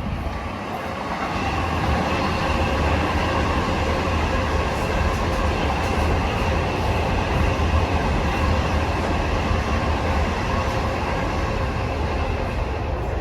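Long Island Rail Road train running along the tracks, a steady rumble of wheels on rail that builds over the first two seconds and then holds, with faint high steady whining tones above it.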